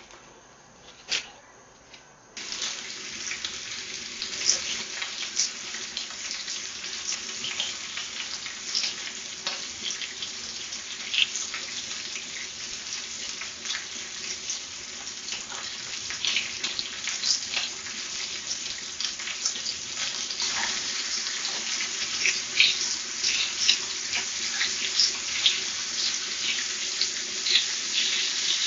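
Kitchen tap switched on about two seconds in, water running into a sink with many small clicks and clatters over it, getting a little louder toward the end.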